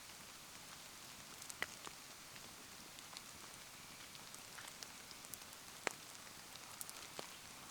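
Rain falling in a steady, quiet hiss over a crackling wood bonfire, with scattered sharp pops; the loudest comes about six seconds in.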